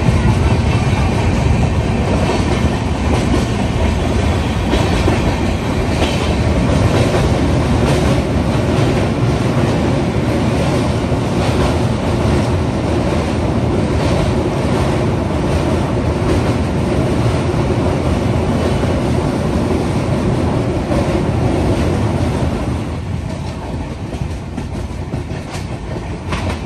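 Train running at speed, heard from aboard: a steady rumble of steel wheels on the rails with a clickety-clack over the rail joints. The noise drops somewhat about 23 seconds in.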